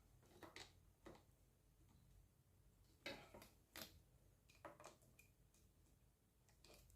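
Near silence broken by faint, scattered clicks and light knocks, about seven in all, from a screwdriver working as the screws of a pedestal fan are tightened.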